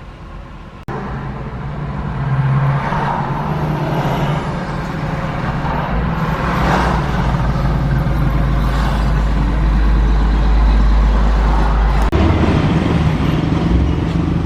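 Truck engine running steadily, with an abrupt break about a second in.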